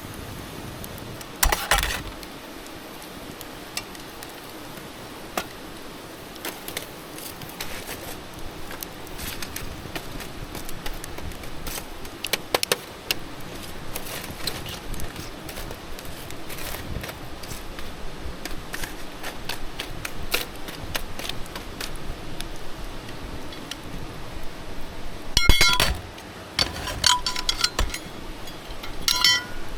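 Metal camp gear clinking and knocking in scattered sharp taps, with a few louder clinks that ring near the end.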